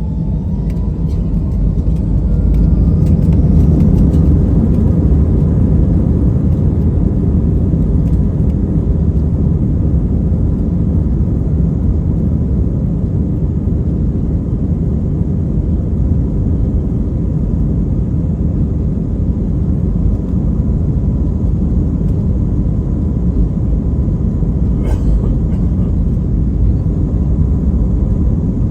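Airbus A319-132's IAE V2500 turbofans at takeoff power, a steady heavy rumble. A rising whine and growing loudness over the first few seconds mark the spool-up for the takeoff roll.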